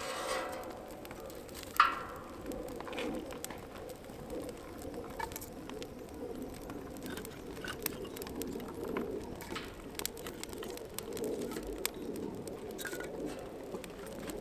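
A bird cooing, like a dove, with faint scattered clicks throughout and one sharper, louder sound about two seconds in.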